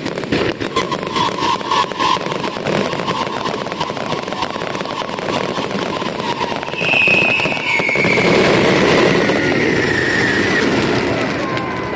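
Fireworks going off in dense, rapid crackling bangs. A long steady tone runs through the first half, then a higher tone slowly falls in pitch while the overall noise grows louder.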